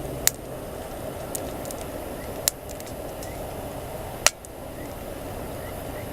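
Wood campfire burning with a steady hiss and occasional sharp crackles and pops, three loud pops standing out, the loudest about four seconds in.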